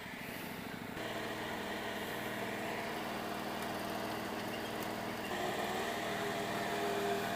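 Small twin-cylinder garden tractor engine running hard under load in thick mud, picking up revs about a second in and getting louder again about five seconds in.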